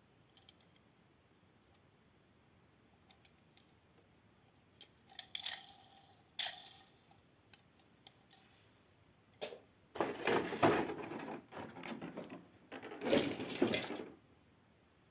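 Plastic toys being handled: scattered light clicks, then short clatters, and a few seconds of rattling and clattering about ten seconds in.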